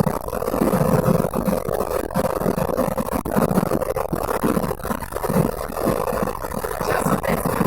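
Lada Priora's 1.6-litre 16-valve VAZ-21126 engine and road noise heard from inside the moving car's cabin, the exhaust running through an insert in place of the catalytic converter: a steady drone over uneven low rumbling.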